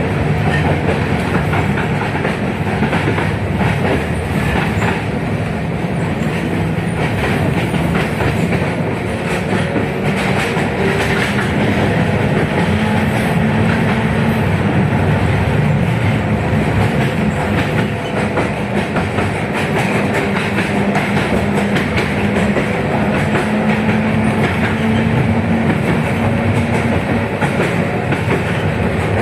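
A 71-619KT tram running under way, heard on board: steady wheel-and-rail running noise with a low whine that rises in pitch twice, around the middle and again later.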